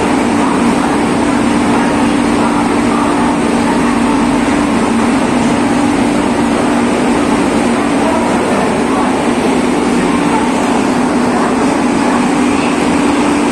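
Suburban electric commuter train at a platform, a steady loud hum, with crowd voices mixed in.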